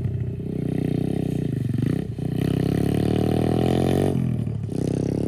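Pit bike's small engine running at high revs, dropping off briefly about two seconds in, climbing in pitch again, then easing off for about half a second near the end before picking back up.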